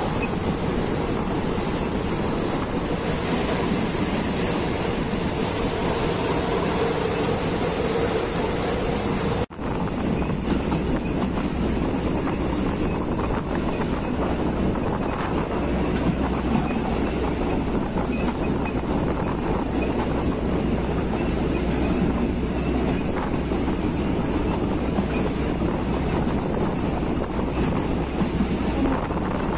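Steady running noise of a moving passenger train, wheels on rail and carriage rumble, heard through an open carriage window. The sound cuts out for an instant about nine and a half seconds in, then the train rolls on with a deeper rumble.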